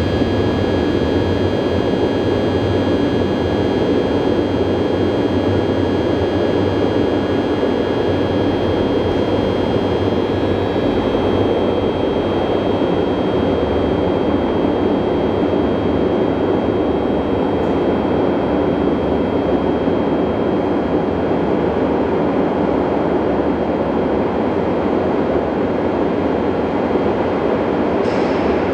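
Electric train standing at an underground station platform, its onboard equipment giving a steady hum with a thin high whine over it; one of the whine tones drops out about eleven seconds in.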